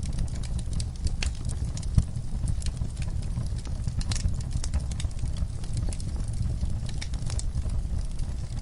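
Wood fire burning in a fireplace: irregular crackles and small pops over a steady low rumble, with one sharper pop about two seconds in.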